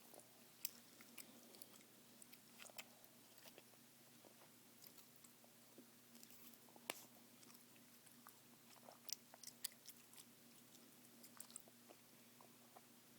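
Chewing gum worked close to the microphone: soft, irregular wet mouth clicks, with a few sharper snaps about a second in, around seven seconds and around nine to ten seconds.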